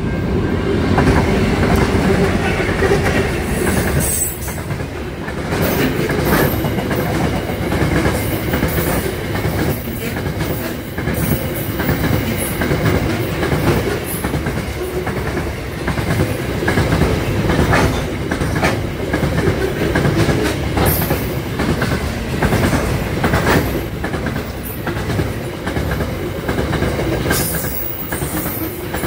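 Aurizon grain train passing: a long line of grain hopper wagons rolls by with a steady clickety-clack of wheels over rail joints. There are brief high wheel squeals now and then.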